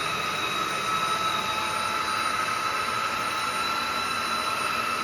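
Vacuum cleaner running: a steady motor whine with an even hiss of moving air, holding one pitch throughout.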